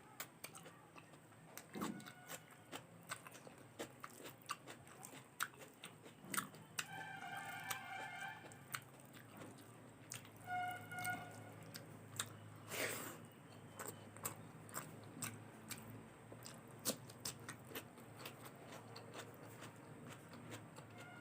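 A person chewing and eating close to the microphone: many irregular small clicks, wet mouth sounds and crunches from bites of rice, curry and salad.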